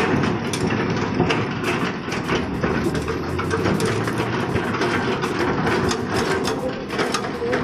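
Excavator working at a dig: its diesel engine runs steadily under irregular clanks and knocks.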